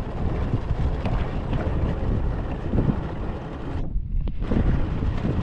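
Motorboat running underway, its engine drone and rushing water under heavy wind buffeting the microphone. The high end cuts out briefly about four seconds in.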